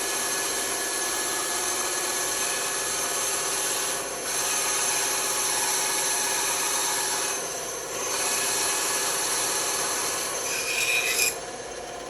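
Band saw cutting wood, a steady sawing noise with two short dips where the feed eases off. Near the end a brief squeal comes from the cut, then the cutting stops and the saw runs on more quietly.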